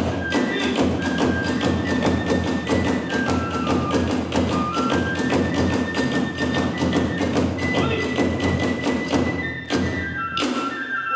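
Kagura hayashi ensemble playing: a high transverse flute carries a stepped melody over a fast, steady beat of drum and hand-cymbal strikes. The percussion breaks off briefly near the end.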